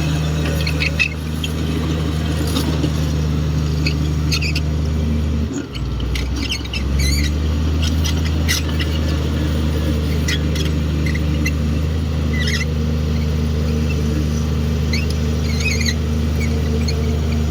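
Komatsu D58 crawler bulldozer's diesel engine running steadily; its note dips and shifts briefly about six seconds in. Short high squeaks come and go over it.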